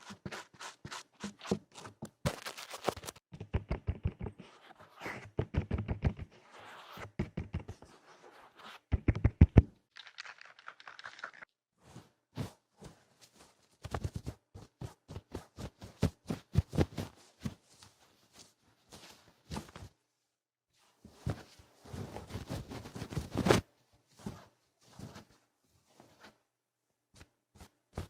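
Ear-cleaning ASMR on an ear-shaped microphone: quick, rough scratching and rubbing strokes against the ear, coming in fast trains of several strokes a second with short pauses between bursts.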